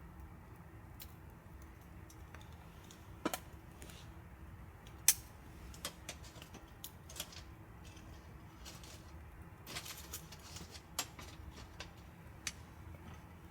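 Wood campfire crackling: irregular sharp pops and snaps, one louder pop about five seconds in, over a low steady background rumble.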